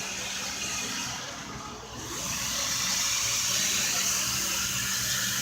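Build-A-Bear grooming station's pedal-operated air blower rushing steadily as the stuffed toy is 'washed'. It eases off briefly, then blows harder from about two seconds in.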